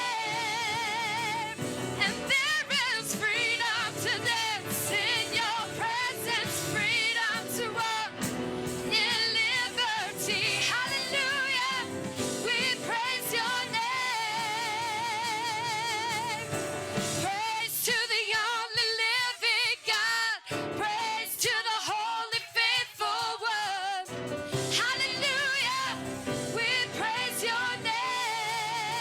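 Worship music with singing: voices with vibrato over a backing band, the low instruments dropping out for a few seconds past the middle while the singing carries on.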